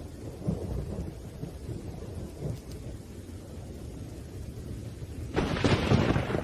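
Thunderstorm: low rolling thunder rumbling under rain, then a sudden loud thunderclap about five seconds in.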